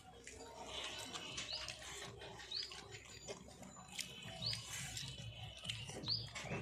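A bird calling with a short rising chirp, repeated several times at intervals of one to two seconds, over small clicks and scrapes of fingers working food on a steel plate.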